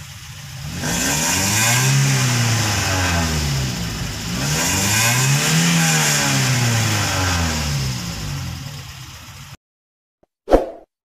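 Toyota Vios 2NZ-FE 1.3-litre inline-four engine revved twice, its pitch rising and falling each time. This is a free-rev check after the rough idle and misfire were repaired, with the engine running smoothly and without hunting. The sound cuts off suddenly about nine and a half seconds in, and a short sharp sound follows.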